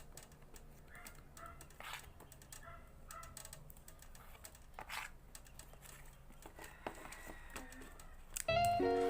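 Faint scattered clicks and short rustling handling noises. Near the end, background music with steady sustained notes comes in much louder.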